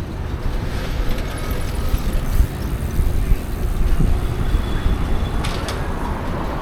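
Wind rumbling on the microphone of a moving bicycle ride through city streets, with passing traffic. There is a short sharp click about five and a half seconds in.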